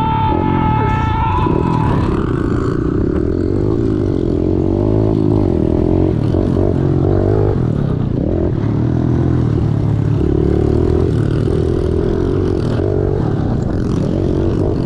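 Small single-cylinder four-stroke pit bike engine being ridden hard, revving up and down repeatedly as the throttle is opened and closed.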